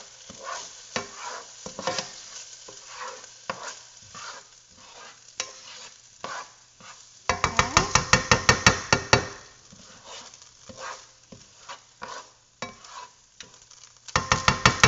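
Risotto rice sizzling in a pan while a spoon stirs it, with scattered clicks against the pot. Twice, about halfway through and again near the end, the stirring turns into a fast, loud run of scraping strokes, about seven a second. The rice is simmering in white wine until it is absorbed.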